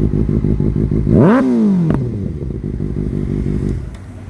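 Kawasaki ZX-6R inline-four idling through a full SC-Project titanium exhaust just after a cold start. About a second in the throttle is blipped once: the revs rise sharply and fall back within a second, ending in a sharp pop, and the bike settles back to idle, which turns quieter near the end.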